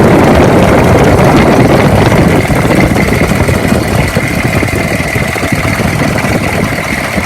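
Chevrolet 6.5-litre V8 diesel engine of a 2002 Chevy 3500 running with a loud, fast clatter and a steady high whine alongside, a little quieter after about two and a half seconds. The engine sounds rough, with a knock the owner places somewhere in the front.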